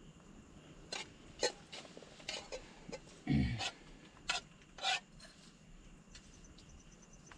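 Utensils and dishes being handled during a camp meal: scattered short clicks, scrapes and knocks, with one louder low thump about three and a half seconds in.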